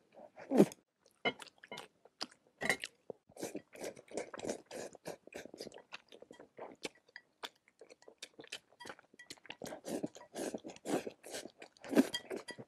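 A person chewing a mouthful of food: a dense, irregular run of short mouth clicks and smacks, several a second.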